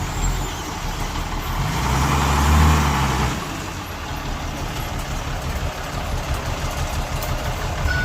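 Heavy diesel engine of earthmoving machinery running, swelling louder under load about two seconds in, then settling back to a steady rumble.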